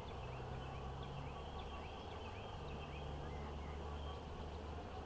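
Honeybees humming around an open hive as its frames are inspected: a steady low drone, with faint small bird chirps behind it.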